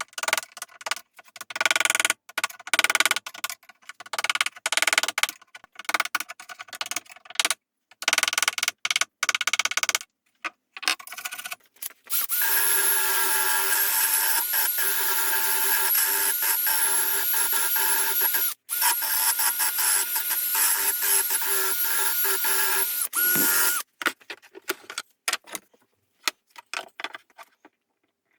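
Short, irregular scraping and rubbing strokes of hand work on the piece. Then a small electric power tool with a high whine runs steadily for about twelve seconds, broken once for a moment halfway, and stops sharply. A few more scrapes follow.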